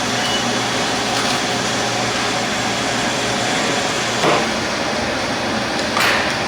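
Steady machine hum, like a ventilation fan, with two brief clattering knocks about four and six seconds in.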